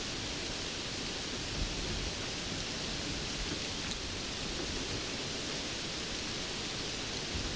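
Steady rain falling, an even hiss without distinct drops.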